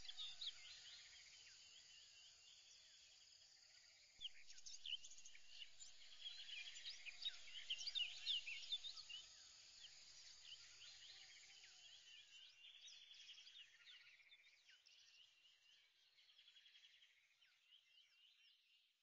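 Faint chirping of birds and insects, busiest about four to nine seconds in, then fading away toward the end.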